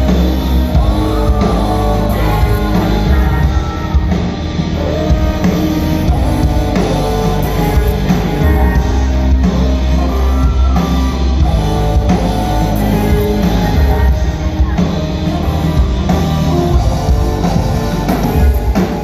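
Live rock band playing an instrumental passage between sung lines, with electric guitar over bass and drum kit, loud and dense as heard from within a concert crowd.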